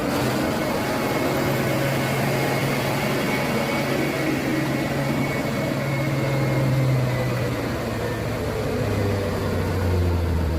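Mitsubishi Fuso HD truck's diesel engine running hard under load as the truck struggles on a rain-wet road. The engine holds steady revs, climbs slightly, then drops to a lower pitch about nine seconds in.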